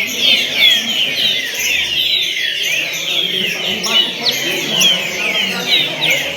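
Many birds chirping at once: a dense, unbroken run of short, quick downslurred notes.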